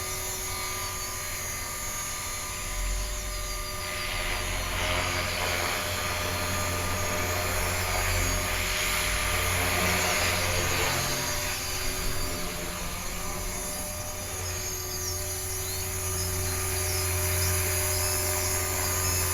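Electric HK-450 RC helicopter in flight: the steady whine of its motor and gears with the whir of the rotor blades, swelling and easing a little as it flies about.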